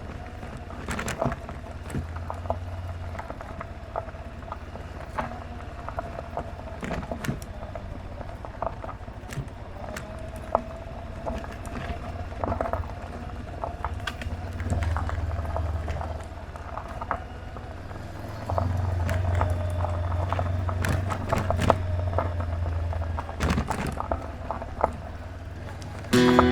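Honda CB500X parallel-twin motorcycle running at a steady pace, heard as a low rumble with a faint steady tone on top. The rumble swells for a couple of seconds around the middle and again for several seconds in the last third, with scattered sharp ticks and clicks throughout.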